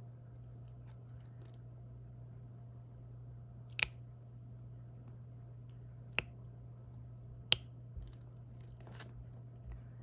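Small sharp clicks of a diamond painting stylus pressing resin drills onto the adhesive canvas: three distinct taps a couple of seconds apart, with fainter ticks in between, over a steady low hum.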